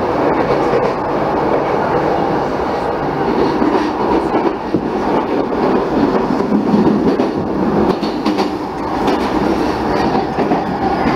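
Running noise inside the cabin of a Saikyo Line commuter train travelling at steady speed between stations: an even rumble of wheels on rail with faint clicks from the rail joints.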